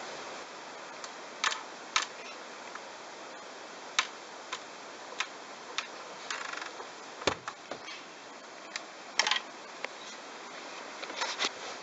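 Bosch washing machine washing towels: a steady hiss of water and drum with irregular sharp clicks and knocks as the load tumbles.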